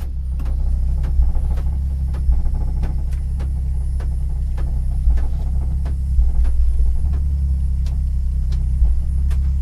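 Car engine idling steadily, a constant low hum, with scattered faint clicks over it.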